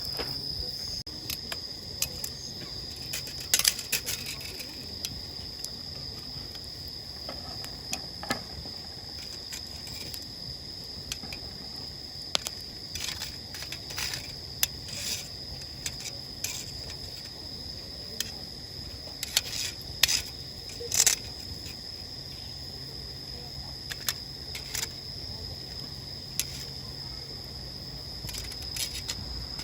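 A steady high chorus of insects chirring without pause, with scattered sharp clicks and light clinks over it, a few louder ones about 4 s and 20 s in.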